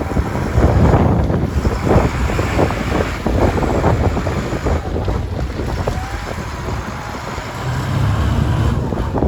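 Strong wind buffeting the microphone, in loud irregular gusts.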